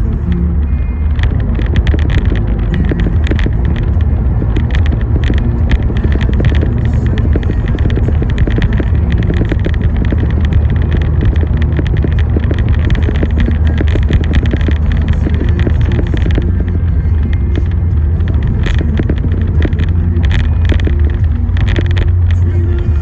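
A car driving on the road, with a steady low rumble of engine and tyres. Irregular sharp ticks of raindrops hitting the car are scattered through it.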